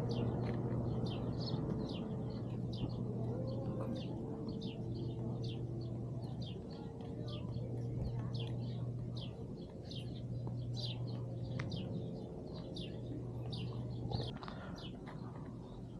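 Small birds chirping, many short high chirps coming one after another, over a steady low hum.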